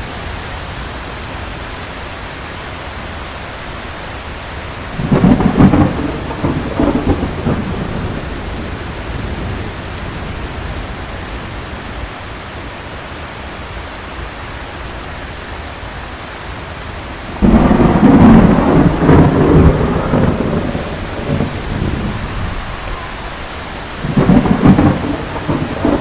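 Heavy rain falling steadily, with three rolling peals of thunder: one about five seconds in, a longer, louder one past the middle, and another near the end.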